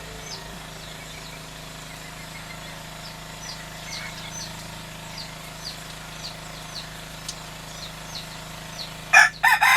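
Short high chirps repeating about every half second over a steady low hum. Near the end a rooster breaks into a loud crow.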